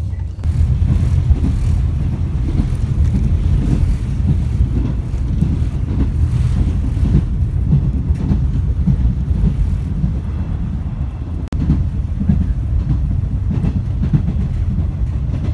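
Former JNR express-type electric train running at speed, heard from inside the passenger car: a steady low rumble of wheels and running gear with small irregular jolts.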